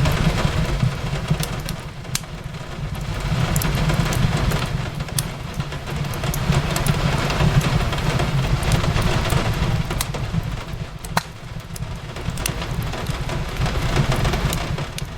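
Fireplace crackling, with scattered sharp pops over a steady low rumble, mixed with rain falling on a window in a hiss that swells and fades every few seconds.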